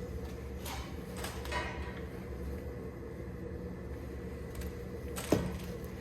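Steady low machine hum, with a few light metallic clicks and one sharp knock about five seconds in.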